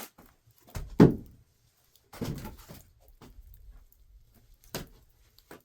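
A heavy wooden thump about a second in, then softer knocks and shuffling of things being handled.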